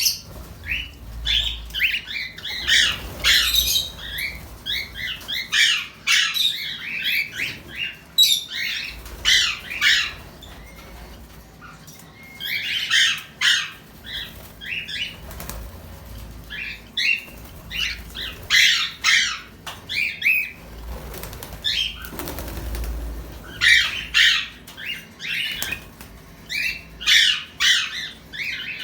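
Caged pet birds chirping and calling in short, repeated bursts, with occasional wing flapping.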